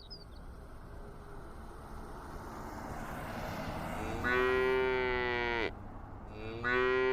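Cow mooing: two long moos, the first about four seconds in and the second near the end, over a steady background hiss that builds before them.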